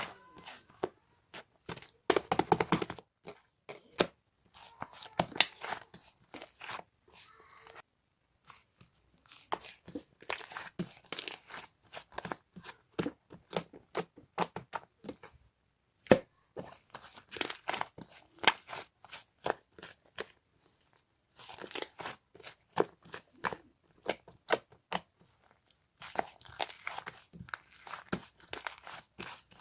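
Crinkling and tearing sounds, made of dense sharp crackles and clicks in bursts of a few seconds with short pauses between them.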